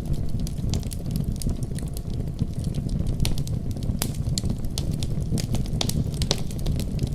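Wood fire crackling, with frequent sharp pops, over the steady deep rumble of a snowstorm's wind.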